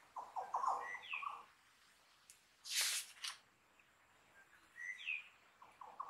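Australian forest birds calling: a quick run of short chirps, then a rising chirp heard twice. A short rustling swish about three seconds in is the loudest sound.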